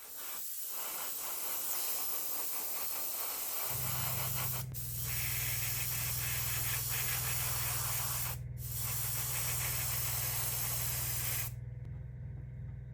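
Paint spray hissing steadily, broken twice by short pauses and cutting off near the end, with a steady low motor hum, typical of an air compressor, coming in a few seconds in and running on.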